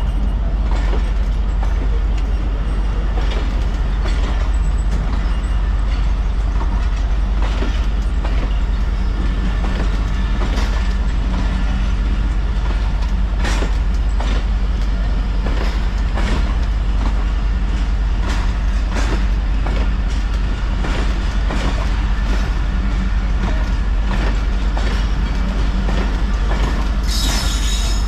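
Passenger train rolling by on the rails with a steady low rumble and irregular wheel clacks over rail joints. A brief high wheel squeal comes near the end.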